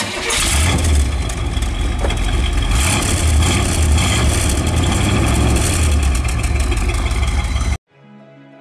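Car engine running loudly with a deep rumble and swelling revs, cutting off suddenly near the end.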